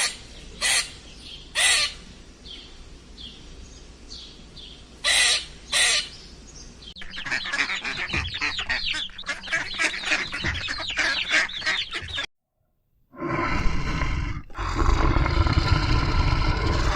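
Bird calls: a few sharp single calls over faint chirping, then many birds calling at once in a dense chatter. After a brief cut to silence, another recording with louder, fuller calls over a low rumble.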